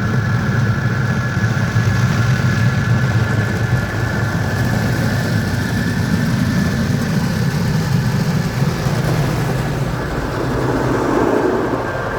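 Christ Varius automatic car wash machinery running steadily: a low rumble with a thin, steady whine over a wash of noise, shifting about ten seconds in.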